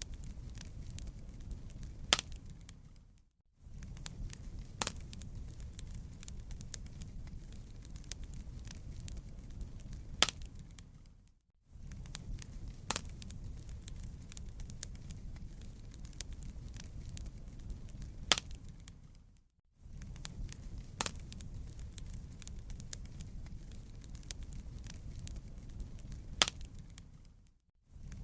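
Wood fire crackling: a steady low rumble with scattered sharp pops. It fades out briefly about every eight seconds.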